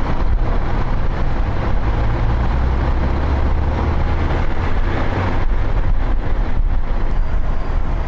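Steady rumble of road traffic and vehicle engines, deepest and loudest about two to four seconds in.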